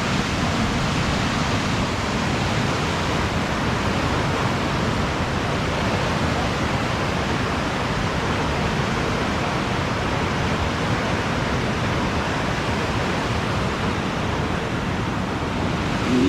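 Floodwater rushing past in a torrent: a steady, unbroken roar of turbulent water.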